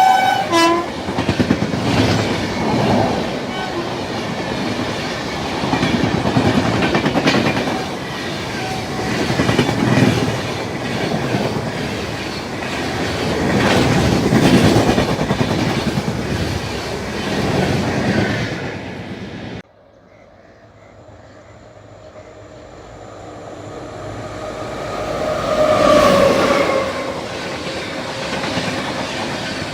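A train running through at speed, its wheels clattering over the rail joints in repeated swells. The sound cuts off abruptly about two-thirds of the way through, then a train approaches, growing louder to a peak with a brief falling tone, and rolls on.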